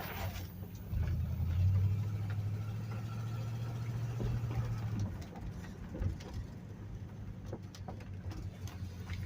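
1975 Buick LeSabre's V8 running at low speed as the car rolls slowly, its low hum louder and steadier from about one to five seconds in, then easing back.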